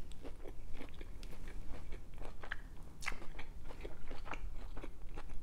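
Close-up crunchy chewing of a toasted mac and cheese grilled cheese sandwich: irregular crisp crunches of the toasted bread, with a sharper crunch about three seconds in.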